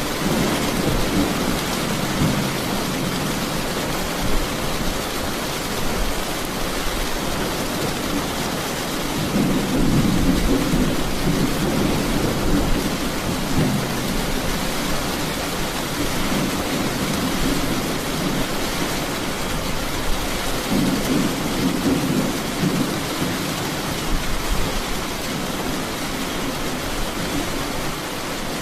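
Steady heavy rain falling, with low rolls of thunder swelling about a third of the way in and again about three quarters through.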